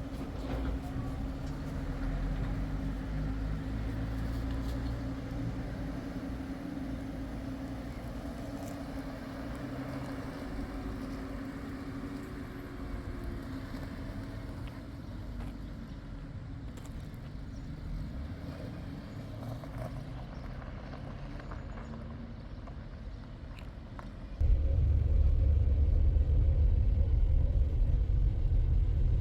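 A motor vehicle running steadily, with a low rumble and a held hum. About 24 seconds in it jumps abruptly to a much louder low rumble.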